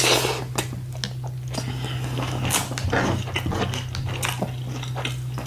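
A person chewing and biting into a loaded taco close to the microphone: many small crisp clicks and crunches, over a steady low hum.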